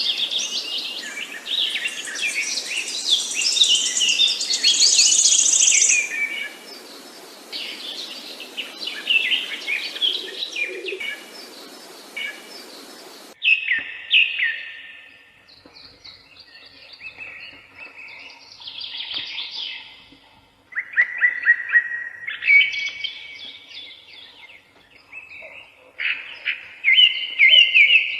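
Several songbirds chirping and singing, many quick calls overlapping in a dense chorus over a steady hiss. About 13 seconds in, the recording changes abruptly to a quieter background, where separate song phrases come and go.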